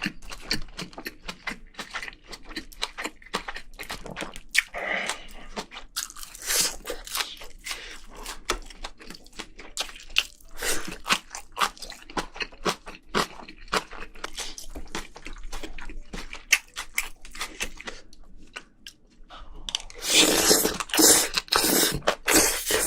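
Close-miked chewing and crunching of spicy braised seafood and vegetables: wet, irregular mouth sounds with crisp crunches. A louder, denser burst of crunching comes near the end.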